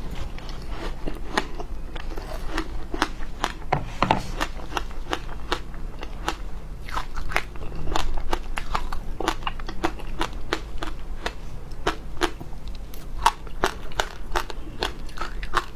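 Frozen matcha ice being bitten and chewed: an irregular run of sharp crunches and cracks, about two or three a second.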